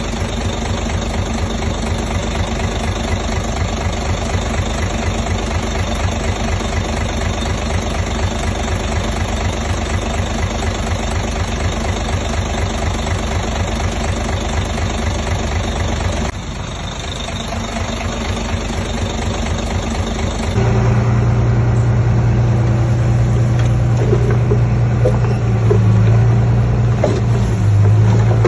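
Heavy diesel engine of construction machinery running steadily with a fast low pulse. About sixteen seconds in it dips briefly. About twenty seconds in it turns louder, with a strong steady low hum.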